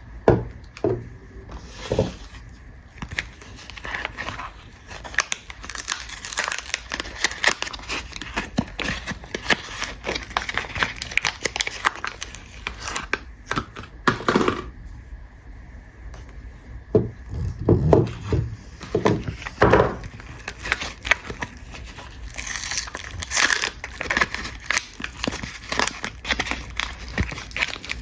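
Soap bar packaging being unwrapped by hand: irregular crinkling and rustling of the wrappers, with tearing, and a brief lull partway through.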